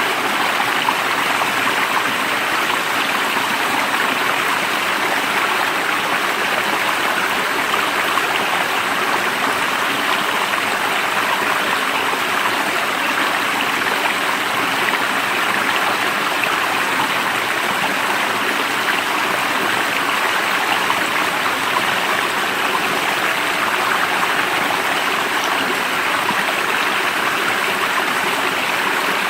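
Steady rushing of flowing water, like a stream running over stones, unchanging throughout.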